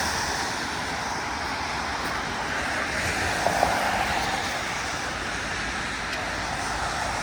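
Steady traffic on a rain-soaked city street: a continuous hiss of tyres on wet pavement mixed with rain. A short faint tone sounds briefly about halfway through.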